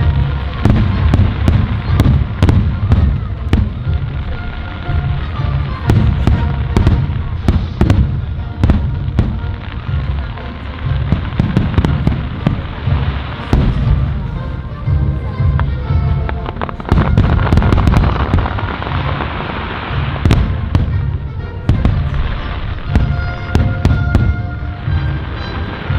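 Fireworks display in full swing: shells bursting in rapid succession, dense sharp cracks over continuous deep booms.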